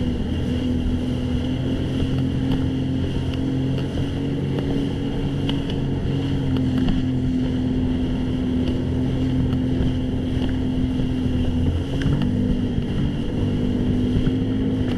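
Jet ski engine running steadily under way, its pitch dipping briefly and picking up again about three-quarters of the way through.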